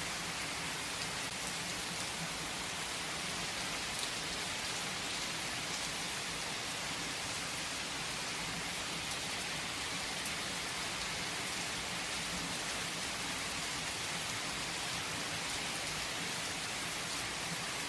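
Heavy rain falling steadily on a tree's leaves, an even hiss with scattered drop ticks.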